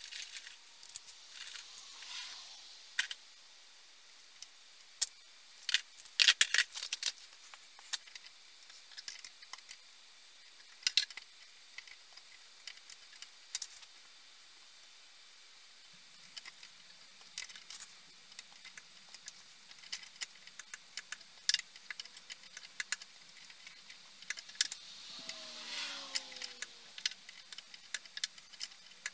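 Small metal parts and hand tools clinking, tapping and rattling in a scattered series of sharp clicks, as in hands-on work on a vintage chainsaw. A faint steady hum comes in about halfway through, and a short squeaking scrape sounds near the end.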